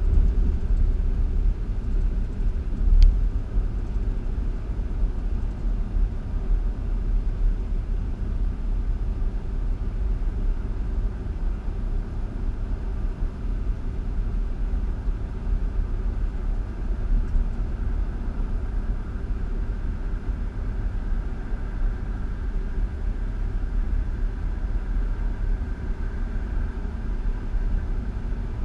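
A steady low rumble, with a single sharp click about three seconds in.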